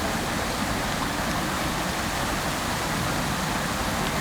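Fountain water falling and splashing steadily into its basin: a constant, even rushing.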